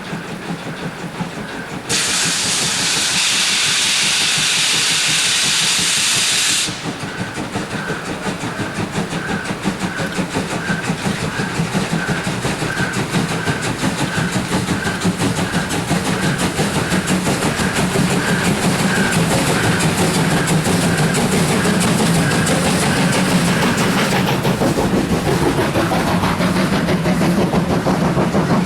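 German 2-10-0 steam freight locomotives of classes 50 and 52 working uphill. For about five seconds near the start there is a loud hiss of steam, then the locomotives run with a regular beat of about two a second over a low rumble that slowly grows.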